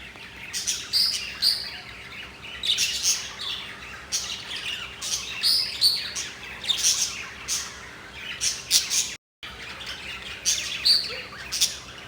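A flock of caged pet parrots chirping and squawking, short high calls coming every second or so, with a momentary break about nine seconds in.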